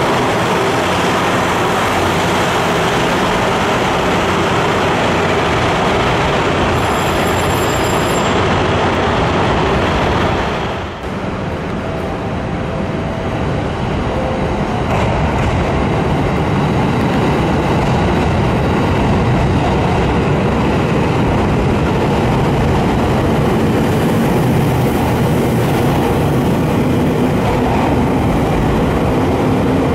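KiHa 183 series diesel express train moving along the platform with a steady rumble. About eleven seconds in, it gives way to a 721 series electric train pulling in and running close past.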